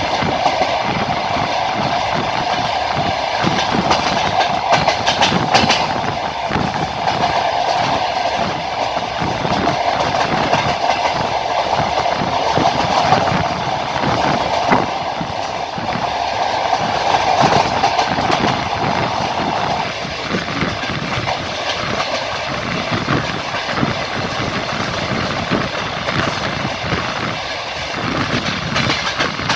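Train wheels clattering rhythmically over rail joints on a moving train, over a steady running rumble. A higher rushing noise on top drops away about two-thirds of the way through.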